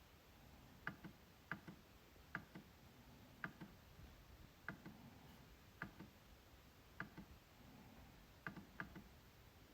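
MacBook trackpad being clicked over and over, about once a second at an uneven pace. Each click is a sharp double tick, press then release.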